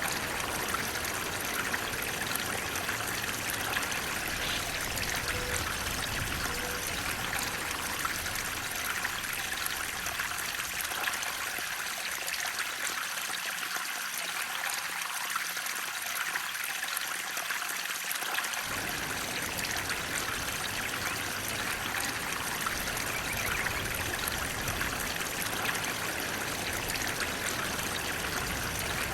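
Water flowing steadily in a continuous even rush, strongest in the upper-middle range; its deeper part thins out for several seconds midway.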